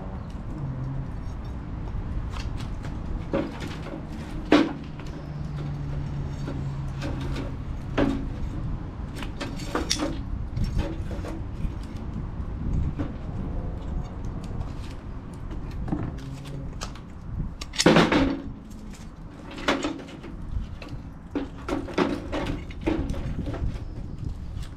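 Campfire crackling, with sharp pops at irregular intervals over a constant low rumble; the loudest pop comes about eighteen seconds in.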